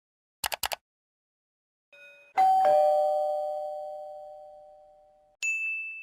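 Doorbell chime sound effect: a two-note ding-dong, high then low, ringing out and fading slowly over about three seconds, followed by a single higher ding near the end. A few short clicks come just before it.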